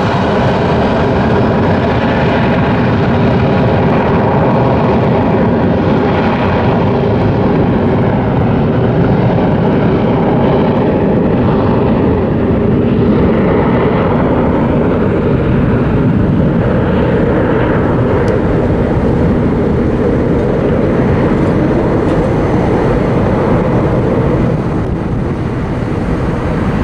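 Jet airliner's engines at takeoff thrust: a loud, steady jet noise with a whine running through it, easing off about 24 seconds in.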